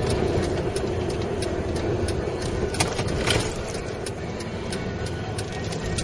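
Steady engine and road noise of a 22-ton MAN truck on the move, heard inside the cab, with frequent small rattles and clicks.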